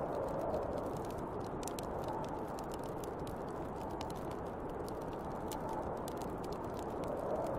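Snowstorm wind blowing steadily with a hollow whistling that swells near the start and again near the end, over the irregular crackle and snap of a burning wood fire.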